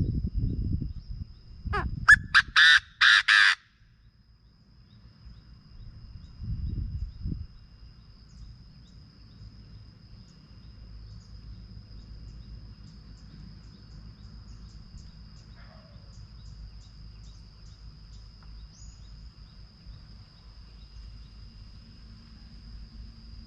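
A Chinese francolin gives one loud, harsh call of about five quick notes about two seconds in. Low rumbles come near the start and again at about seven seconds, and a quiet background with a faint steady high whine follows.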